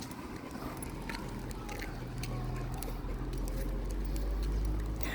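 A car's engine running low as the car drives slowly closer, its hum growing louder through the second half.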